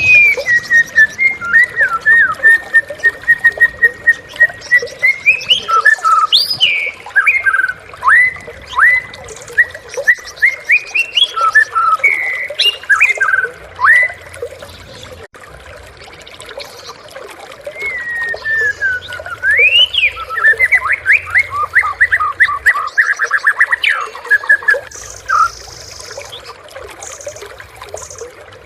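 White-rumped shama (murai batu) singing. It opens with a long held whistle and moves into varied sweeping, whistled phrases. After a pause of a few seconds comes a fast run of rapid repeated notes.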